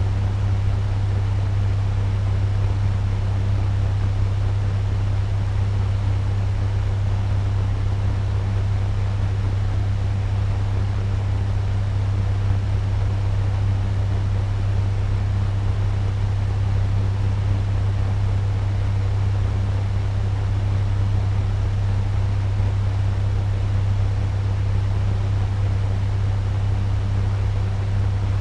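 Electric turbo fan running steadily at medium speed: a constant airy whoosh over a strong low motor hum.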